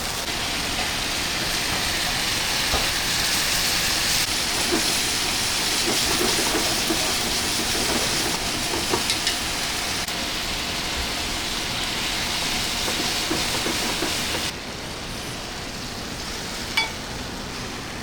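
Steady hissing kitchen noise with scattered small clicks and knocks, changing abruptly in level a few times, with one sharp click near the end.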